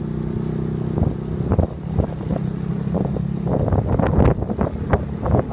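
Vehicle engine idling steadily, then a run of sharp clattering knocks over the last two seconds.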